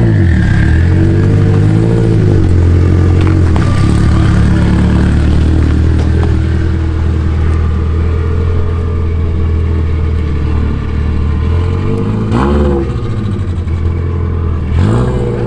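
Turbocharged Subaru WRX STI's stock 2.5-litre flat-four engine running hard under load. Its pitch holds steady for long stretches and dips and rises briefly a few times, around the gear changes.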